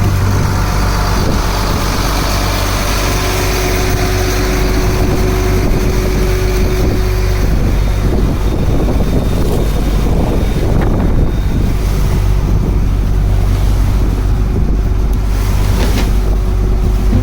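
A fishing boat's engine running steadily with a low hum, with wind on the microphone.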